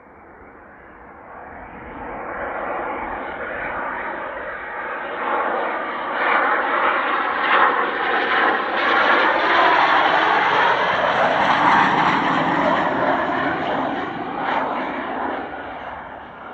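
Jet noise of a Blue Impulse Kawasaki T-4 trainer's turbofan engines. It swells over several seconds, is loudest in the middle, and fades near the end as the jet passes.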